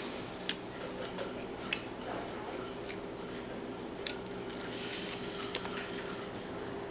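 Chewing and biting into a crispy fried-bread chicken sandwich: about half a dozen sharp crunches and clicks at uneven intervals, over a steady low hum.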